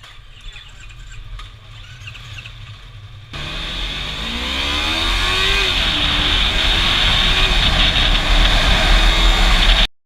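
Yamaha R3's parallel-twin engine accelerating hard, its pitch climbing and dropping back at gear changes, under heavy wind noise. It comes in suddenly about a third of the way in after a faint low hum, and cuts off abruptly near the end.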